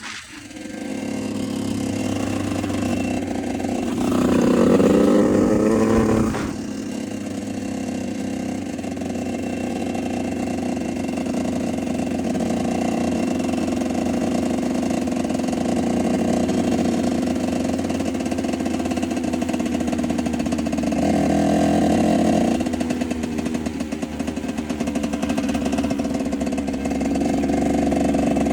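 Enduro motorcycle engine running steadily, revving up with a rising pitch about four seconds in and dropping back suddenly a couple of seconds later, with a second, shorter burst of throttle a little after twenty seconds.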